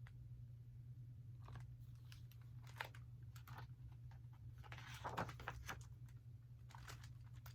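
Faint rustle and crinkle of a paper book page being turned, with a few soft clicks, over a steady low electrical hum.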